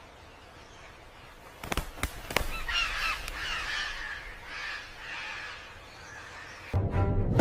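A bird giving a series of short, repeated calls a few times a second. A louder, deeper sound comes in near the end.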